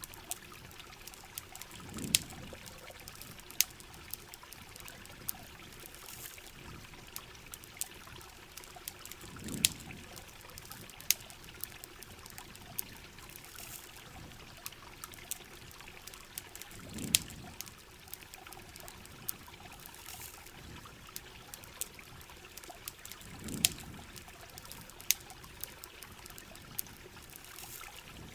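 Heavy rain and flowing river water hissing steadily, with a campfire's sharp crackles and pops scattered throughout. A soft low swell rises and fades about every seven seconds.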